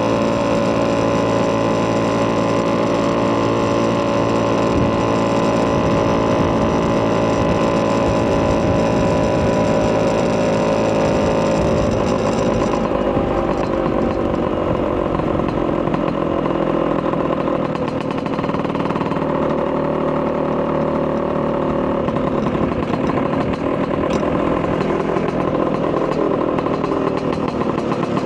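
Vespa PX200 single-cylinder two-stroke engine with a Polini 210cc kit and Malossi expansion-chamber exhaust, running. The note eases slowly down in pitch over the first half or so, then holds steady.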